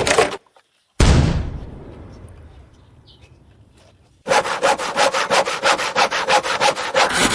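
A sudden loud crash that dies away over about three seconds, followed by a rapid rhythmic rasping of about five strokes a second, like sawing.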